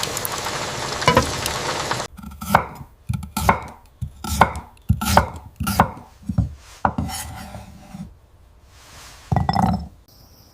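Knife chopping food on a cutting board: about a dozen uneven chops, roughly two a second, with one more chop near the end. Steady rain hiss fills the first two seconds, then stops suddenly.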